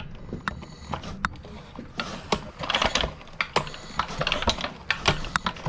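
Small single-cylinder lawn-mower-type engine being turned over with its recoil pull-starter, without firing. There are about three pulls, each a whirring rattle among sharp mechanical clicks.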